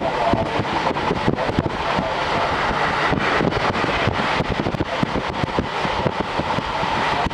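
JR Hokkaido Series 711 electric train running at speed, heard through an open side window: steady wheel and rail noise mixed with wind rush, broken by many short irregular clicks and knocks.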